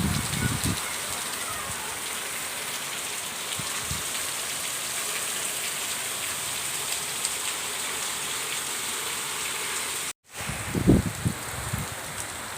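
Heavy rain falling steadily in an even hiss. It cuts off abruptly about ten seconds in, and a few low thumps follow.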